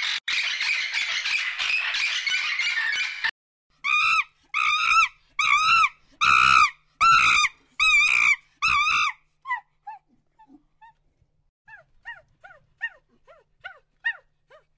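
A cockatoo's harsh screeching, cut off abruptly about three seconds in. Then a young animal gives about eight loud, high, whining calls in quick even succession, trailing off into short, faint, falling whimpers.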